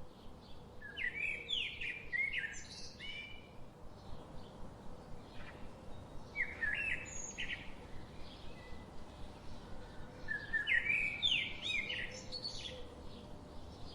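Forest birds singing: a songbird gives three phrases of quick rising and falling notes about four seconds apart, with fainter calls from other birds between them and a faint steady background rush.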